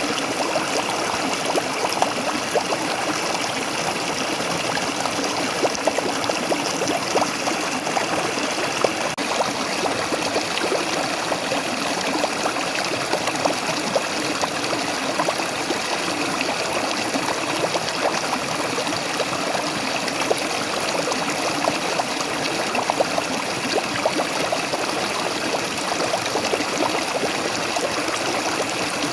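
Waterfall: water falling and splashing steadily, with small irregular splashes standing out now and then.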